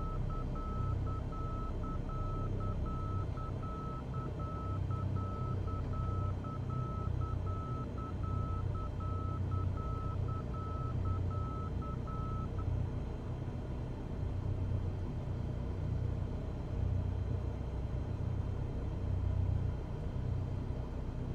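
Cessna 172's engine and propeller drone steadily in the cabin. For the first twelve seconds or so a high beeping tone runs over it, keyed on and off in an even repeating long-short pattern.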